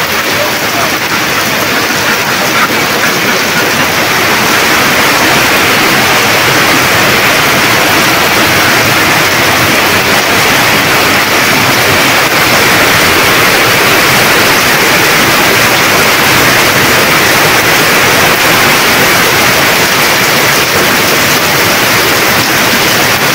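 Torrential monsoon rain pouring down onto corrugated metal roofs and a flooded yard: a loud, steady, dense hiss.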